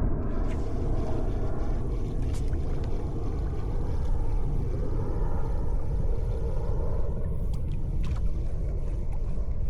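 Steady rumble of wind and water around a kayak on open water, heaviest in the lows, with a few faint ticks scattered through.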